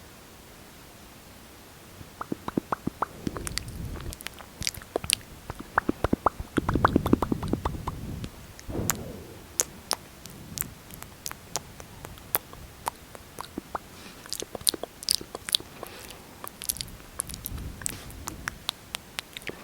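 Close-miked lip smacking and sticky mouth clicks, as of glossed lips parting and pressing together. They come irregularly, with several quick runs of sharp clicks and a few short, wetter swells.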